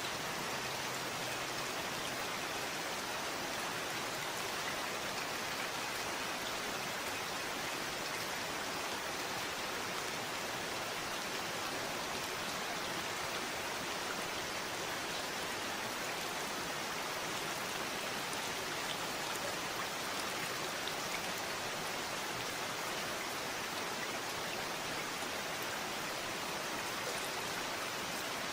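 Steady rain falling, an even hiss of many drops with faint scattered drip ticks, unchanging in level.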